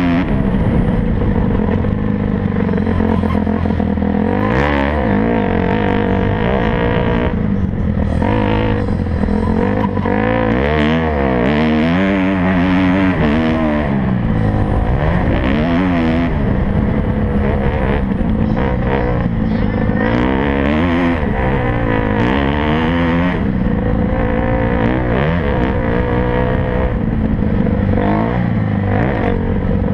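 Motocross bike engines revving hard, their pitch climbing and dropping again and again as the riders accelerate, shift and back off, with several engines overlapping.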